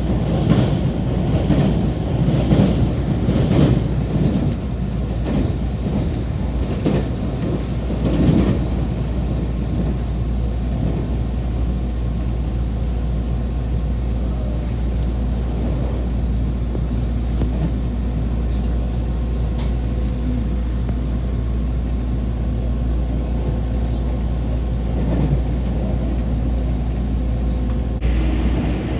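Train running with a steady low rumble and a faint steady whine; irregular clatter over the first several seconds, then steadier running.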